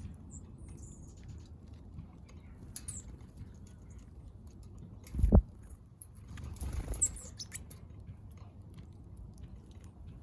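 Small backyard birds pecking at seed, a scatter of light ticks, with a few faint high chirps. A low thump comes about five seconds in, followed by a brief rustling flutter.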